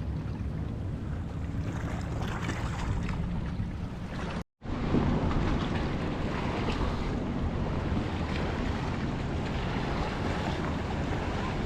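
Wind buffeting a waterproof action camera's microphone over sea water sloshing and lapping. The sound cuts out completely for a moment about four and a half seconds in, then resumes.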